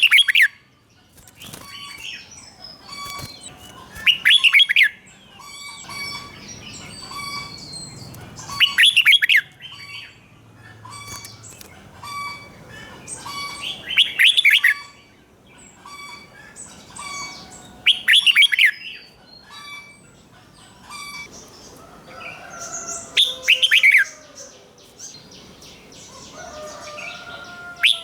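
Red-whiskered bulbul singing. Loud, rapid warbled phrases come about every four to five seconds, with softer chirps between them.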